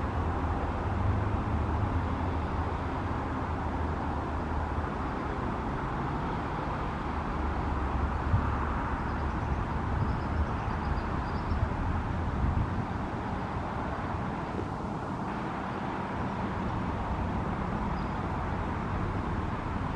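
Steady hum of distant road traffic with a low rumble that swells and fades, and a few faint high chirps about halfway through.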